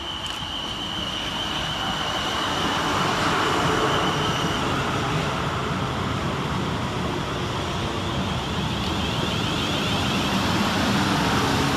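South Western Railway Class 450 Desiro electric multiple unit arriving and running into the platform, growing louder as it comes in. A steady high whine carries over the running noise and fades out about five seconds in.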